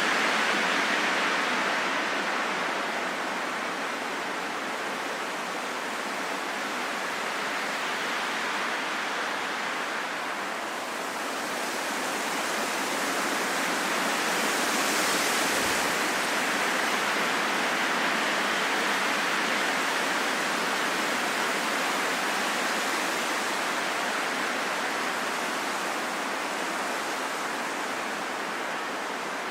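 Steady rain, a dense even hiss that swells and eases slowly.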